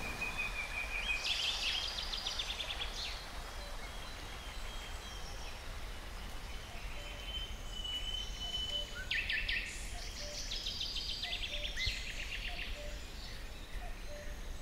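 Several wild birds singing in woodland: rapid high trills come every second or two, with a couple of thin drawn-out whistles, over a steady background hiss. Faint soft low notes sound here and there.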